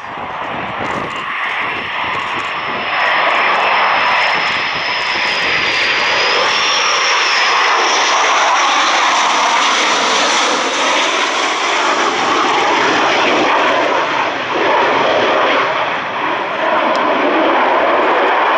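Military aircraft engines running loud at close range: a dense, steady roar that builds over the first few seconds and then holds, with a high turbine whine above it that wavers in pitch about six seconds in.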